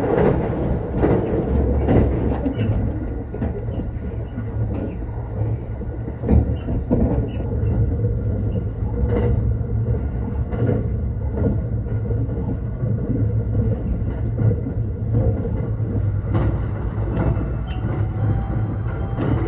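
Interior running noise of the Thunderbird limited express train at speed: a steady low rumble from the wheels on the track, broken by occasional short knocks and clicks.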